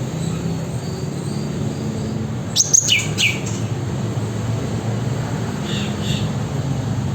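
Cucak ranting bird calling: two quick high whistles falling in pitch a little under three seconds in, then two fainter notes near six seconds, over a steady low hum.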